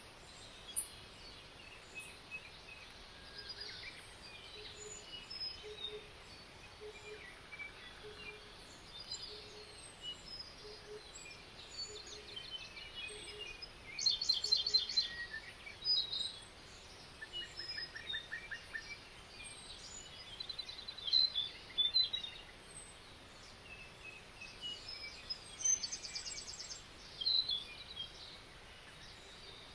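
Forest birdsong: several songbirds chirping and trilling over a steady background hiss, the loudest rapid trills about halfway through and again near the end. A faint low note repeats about once a second through the first half.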